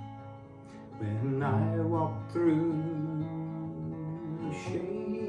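Slow hymn singing with strummed acoustic guitar. The guitar chord is held quietly for about a second, then a drawn-out, wavering sung line comes in, and another sung note follows near the end.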